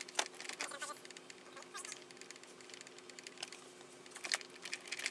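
Irregular light clicks and taps of hands and tools working the plastic trim and fasteners around a car's rear speaker while it is removed, over a faint steady hum.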